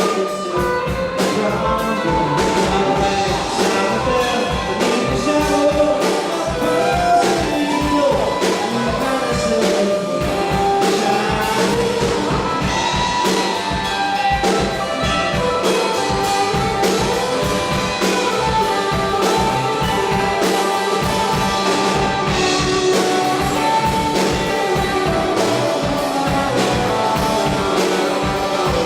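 A live rock band playing, with a lead melody line that slides and bends over a steady drum beat and bass.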